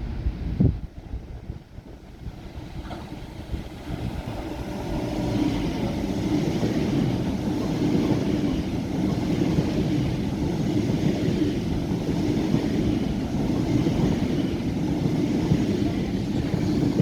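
A train running on the rails, its noise building over the first few seconds and then holding steady. A short thump comes under a second in.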